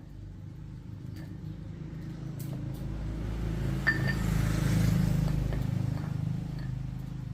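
A motor vehicle's engine running past, its low hum growing louder for about five seconds and then fading. A sharp metallic clink comes about four seconds in.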